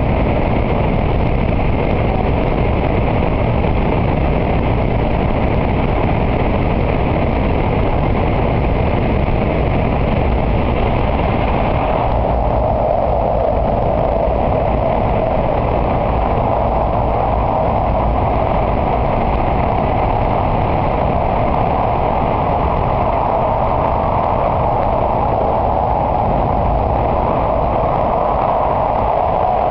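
Steady, loud running noise inside the cabin of an N700A Shinkansen travelling at speed through a tunnel. About twelve seconds in, the higher hiss drops away and a lower rushing band grows stronger.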